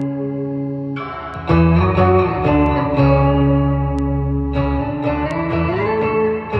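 Electric guitar music through effects, playing sustained chords that change every second or two. The chord shifts about a second and a half in, and a note slides upward near the end.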